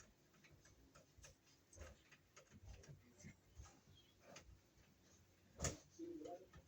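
Faint, scattered clicks and ticks of a Robertson square screwdriver working the screws of a Romex cable connector, with one sharper click near the end followed by a brief faint squeak.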